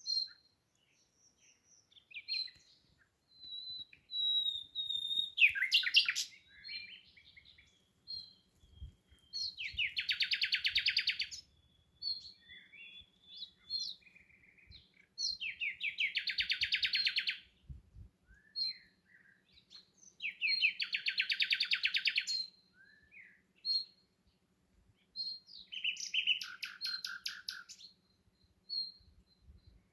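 Songbird singing: short high chirps and whistles, broken about every five seconds by a loud, rapid trill lasting a second or two.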